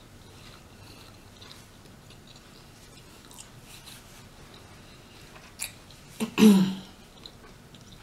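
Close-miked mouth sounds of a person chewing rotisserie chicken: soft, steady chewing with small clicks, and one louder wet smack about six and a half seconds in.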